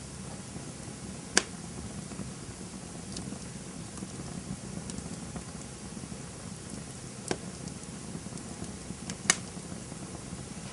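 Campfire burning with a steady low rumble and scattered small crackles, broken by three sharp pops: about a second in, about seven seconds in, and near the end.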